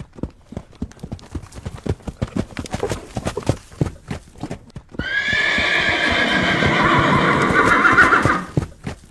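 Horse hooves clip-clopping in a quick, uneven patter, then about five seconds in a loud horse whinny lasting three to four seconds. Hoofbeats resume near the end.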